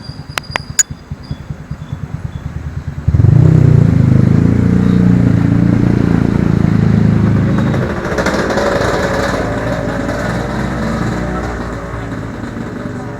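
Motorbike engine that is faint and pulsing, then abruptly loud about three seconds in, with a low steady running note that slowly fades away. A few sharp clicks come just before it grows loud.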